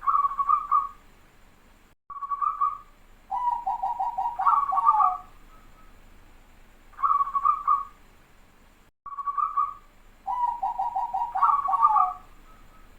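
Zebra dove (perkutut) cooing its song twice, with close-set notes: each phrase is two short coos followed by a fast rolling run of about six notes that ends on a drawn-out note.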